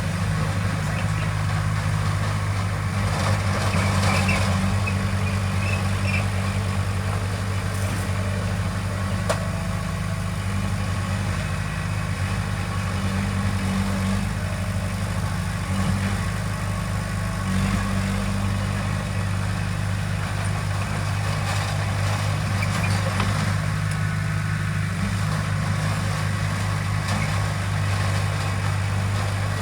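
Heavy diesel engine of earthmoving machinery running steadily at a low, even speed, with a constant low hum.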